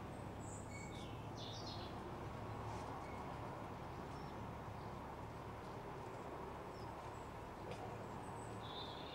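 Birds chirping faintly in short, scattered calls, a few in the first two seconds and more near the end, over a steady low background hum.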